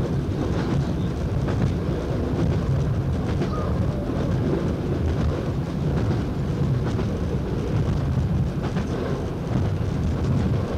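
Steady low rumble of a train running along the line, heard from inside the driver's cab, with a few faint clicks.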